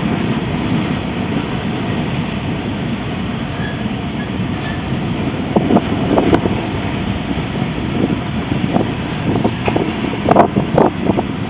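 Freight cars of a CSX manifest train rolling past: a steady rumble of steel wheels on rail. Clusters of sharp metallic clanks come about halfway through and again near the end.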